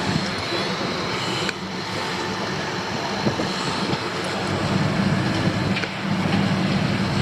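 Heavy road-construction machinery working, a steady diesel rumble and clatter that grows a little louder about four and a half seconds in.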